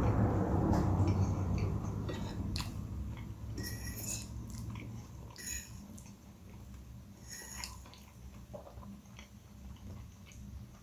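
Close-miked chewing of a mouthful of instant-noodle carbonara, loudest in the first two seconds and then fading. Sharp clicks and clinks follow over the next few seconds as a metal fork works the noodles on a glass plate.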